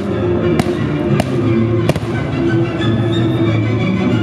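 Fireworks going off over music: four sharp bangs in the first two seconds, about half a second apart, with the music playing steadily throughout.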